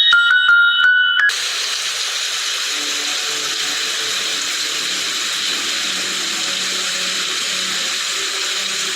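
A short chiming tune cuts off about a second in, followed by a steady hiss of falling rain, a rain sound effect, with faint low notes underneath.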